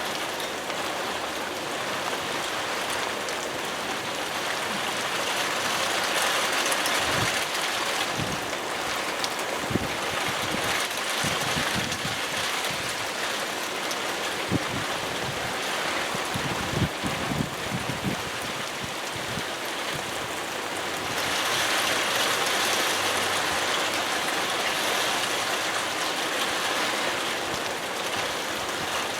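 Heavy rain pouring steadily, with scattered dull taps of drops hitting something close between about 7 and 19 seconds in. The downpour gets louder about 21 seconds in.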